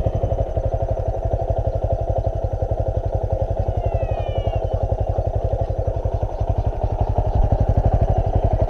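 Motorcycle engine idling with a rapid, even beat.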